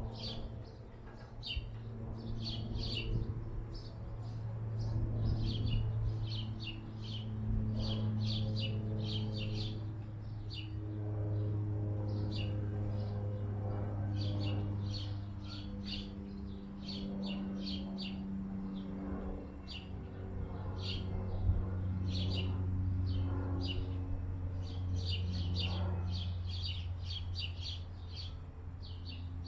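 Small birds chirping in quick runs of short, high notes again and again, over a steady low hum.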